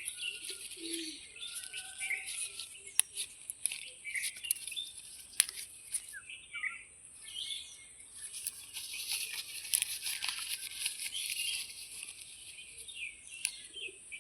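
Small birds chirping in short calls over a steady high-pitched hiss, with many scattered sharp clicks and rustles.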